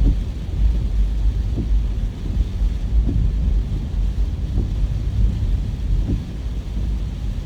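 Steady low rumbling noise of travel in the rain, of the wind-on-the-microphone and vehicle kind, with a soft regular beat about every second and a half.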